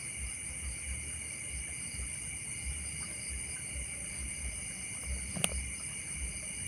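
Night insects, crickets, trilling in a steady chorus, with wind gusting on the microphone and one sharp click about five seconds in.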